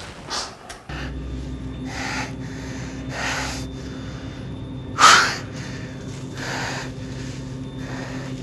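A man breathing hard, with a loud breath about every second and a half; the strongest comes about five seconds in. Under the breaths is a steady low hum.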